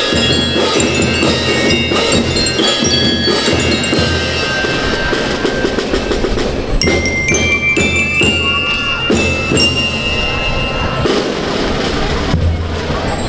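Live school band music: drums playing under a melody of bright, bell-like struck notes from mallet instruments such as bell lyres.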